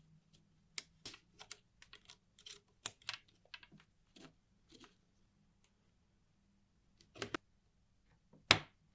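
Irregular light clicks and taps of small parts being handled on a workbench. A quick run of them comes first, then a pause, then two sharper knocks near the end, the last one the loudest.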